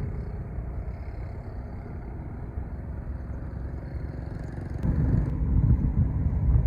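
Low, steady rumble of a passing cargo ship's engine. It jumps louder after a short click about five seconds in.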